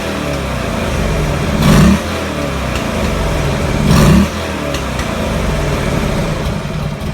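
2007 Buell XB12SS's V-twin engine idling and being blipped twice, about two seconds apart, each quick rev rising briefly then falling back to idle.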